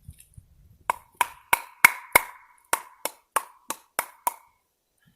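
Wood being struck: about a dozen sharp, evenly spaced knocks, roughly three a second, each with a short ring, while firewood is readied for an upside-down fire.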